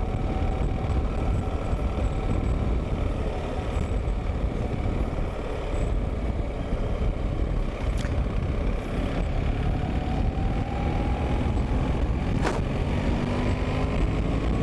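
Wind and road noise on a helmet-mounted wireless microphone with a furry windscreen, noise cancellation off and visor open, while riding a BMW R 1300 GS; the boxer-twin engine note rises as the bike speeds up in the second half. Two sharp ticks cut through, about eight and twelve seconds in.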